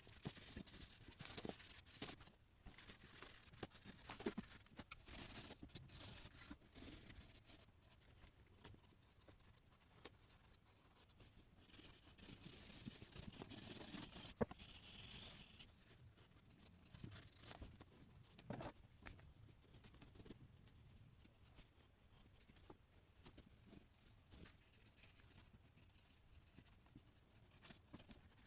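Faint, intermittent scratching of a pen or pencil drawing strokes on paper, busier in the first few seconds and again about halfway through.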